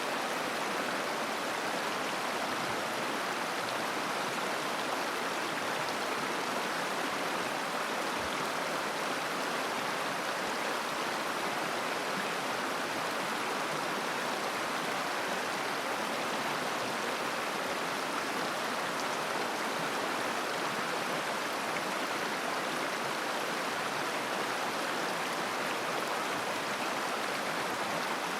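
River water rushing and babbling over rocks in a steady, even flow.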